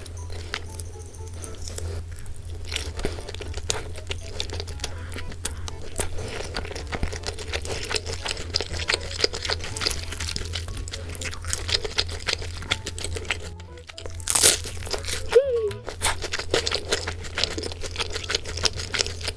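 Crunchy eating sounds: repeated bites and chewing of boneless seasoned fried chicken, with one louder crack about fourteen seconds in. Soft background music plays underneath.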